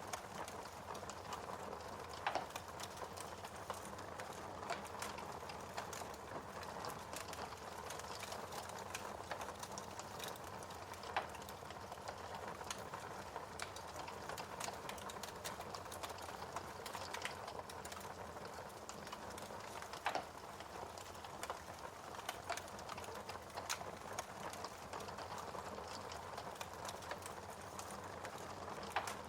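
Wood fire crackling in a fireplace: a steady soft hiss with constant small irregular crackles and a few louder sharp pops.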